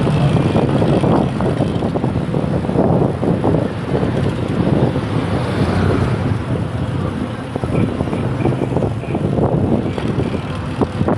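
Steady, loud rumble of road and traffic noise heard from a moving bicycle.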